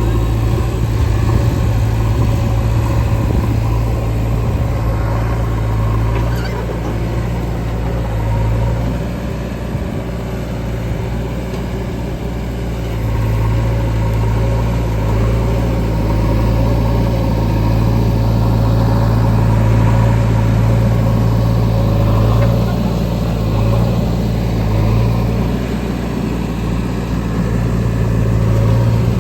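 Diesel engine of a JCB 3DX backhoe loader running steadily under working load, with a strong low hum that eases off briefly twice.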